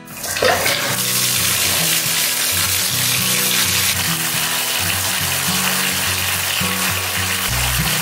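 Bathtub faucet running, a steady stream of water splashing onto the tub floor; it starts just after the beginning and keeps an even hiss.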